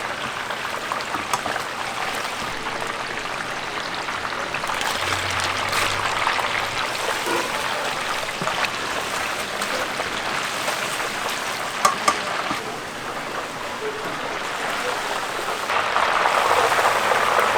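Chicken deep-frying in hot oil, a steady crackling sizzle with a few sharper pops.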